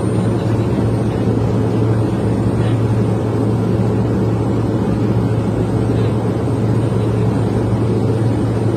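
Steady cabin drone of a Pilatus PC-12 in flight: its single turboprop engine and propeller give a constant deep hum under an even rushing noise.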